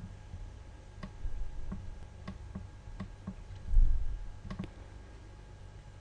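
About nine sharp computer mouse clicks at an irregular pace, with one dull low thump past the middle, louder than the clicks.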